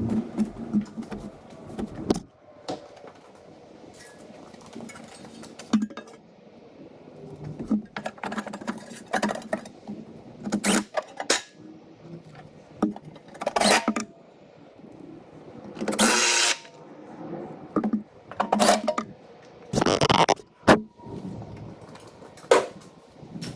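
Irregular metallic clanks, knocks and scrapes, like tools and hardware being picked up, set down and worked by hand, with longer scraping clatters about two thirds of the way in and near the end.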